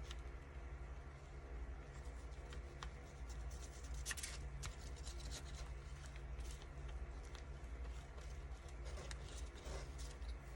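Paper being handled and worked by hand: a run of small irregular rustles and snips, busiest about four seconds in, over a faint steady low hum.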